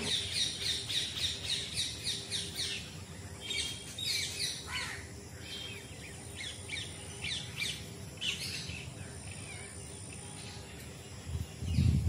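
Small birds chirping: a fast run of high chirps, about five a second, then scattered calls and short downward-sweeping notes. A low rumble rises near the end.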